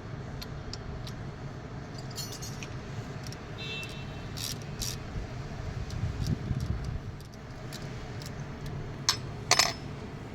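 Metal tools and engine parts clinking during engine repair work: scattered light clinks, a short metallic ring about four seconds in, and two sharp clinks near the end, over a steady low rumble.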